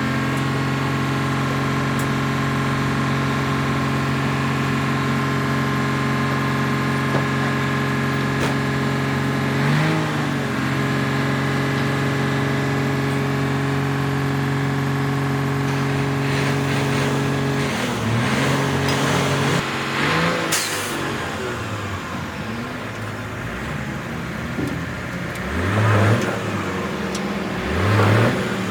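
Diesel engine of a JCB loader running steadily at idle, with short revs about ten seconds in and several more in the second half.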